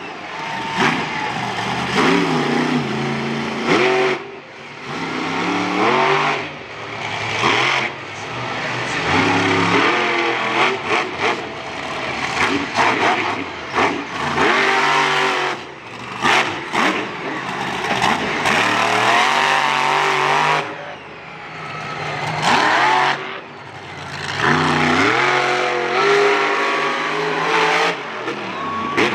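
Monster truck engine revving hard and dropping back again and again through a freestyle run, its pitch climbing and falling, with a few sharp bangs between.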